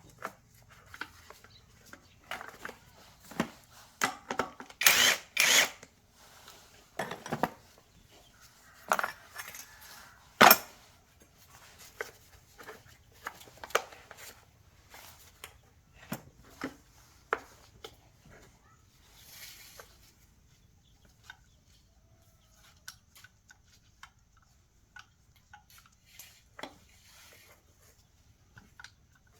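Hand tools and small metal parts clinking and knocking in an irregular run of sharp strikes. They come thickly through the first half, the loudest about ten seconds in, and grow sparse and faint after about eighteen seconds.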